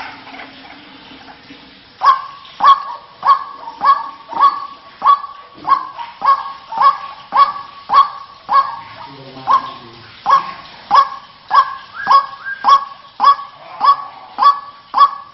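White-breasted waterhen (ruak-ruak) call played as a bird lure: a long, even series of short repeated call notes, a little under two a second, beginning about two seconds in.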